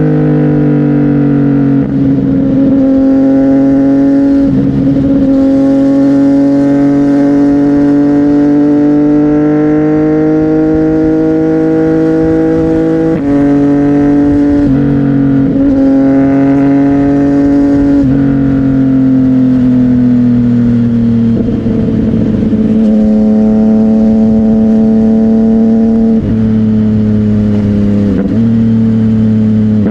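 A CFMOTO 675NK's three-cylinder engine running steadily through a Burnout titanium exhaust. Its pitch rises slowly over the first half, then eases down, and the sound is broken by several short breaks.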